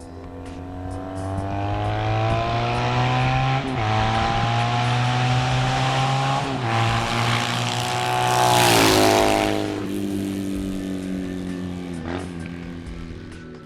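Motorcycle engine accelerating hard through the gears: its pitch climbs and drops back at each of about four shifts. It is loudest around nine seconds in.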